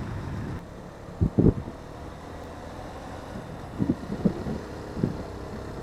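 Motorcycle running along at a steady pace, with wind on the rider's microphone, and a few short thumps about a second in and again around four to five seconds.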